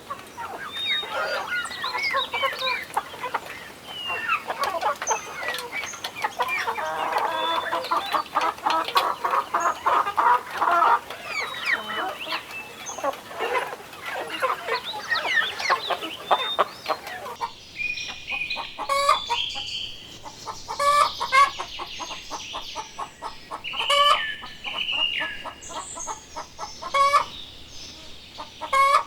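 A flock of chickens clucking and calling, with many short calls overlapping.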